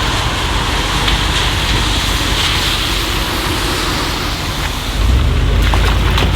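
Car engine running low under a steady hiss of heavy rain, the engine growing louder about five seconds in as it starts to pull away.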